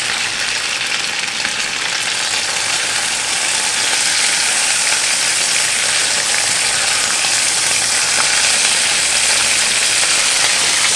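Stuffed chicken breasts sizzling in hot olive oil in a saucepan, a steady frying hiss that grows louder a few seconds in as they are flipped onto their uncooked side.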